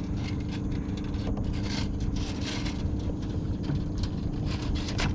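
A boat motor running steadily, an even low hum, with scattered short scraping and splashing sounds close by over it.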